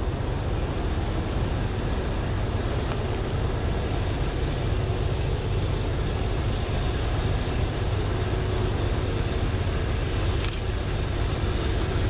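A freight train rolling past, a steady low rumble of wheels on rail, with a thin high steady tone above it and one sharp click about ten seconds in.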